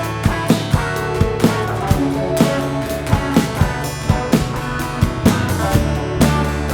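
Live indie band playing an instrumental passage: a drum kit keeping a steady beat over bass and guitar.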